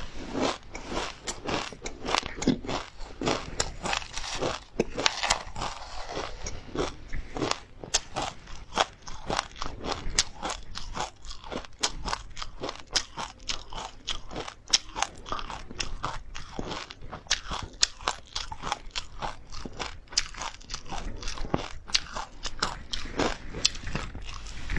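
Close-miked crunching and chewing of oil-fried perilla seeds mixed with pumpkin seeds, flaxseeds and chili: a dense, continuous run of small crisp crackles.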